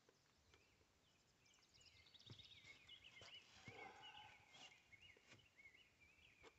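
Faint birdsong: a run of quick, warbling chirps that starts about a second and a half in and goes on to the end, with a few faint clicks among them.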